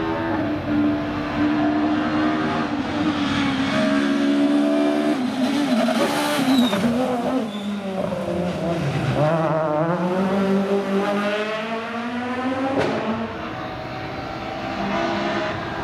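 Rally car engine at high revs. It holds a steady pitch, drops sharply about halfway through as the revs fall, then climbs again and wavers as it accelerates.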